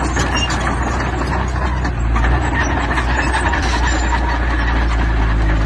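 Diesel engine of heavy earthmoving machinery running steadily under a continuous low drone, with a constant clattering rattle over it.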